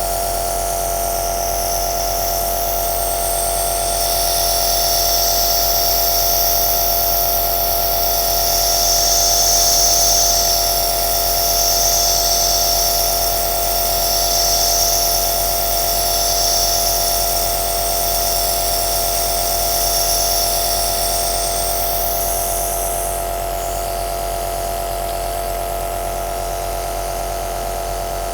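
Compressor nebulizer running with a steady motor hum. From about four seconds in, a higher hiss swells and fades every two to three seconds, then drops away a few seconds before the end.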